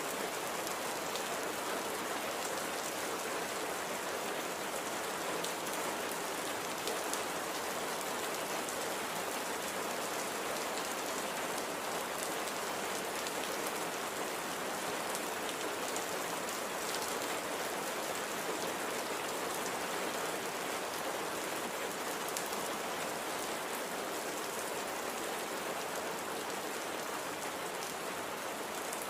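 Steady light rain falling on a surface, an even hiss of many fine drops.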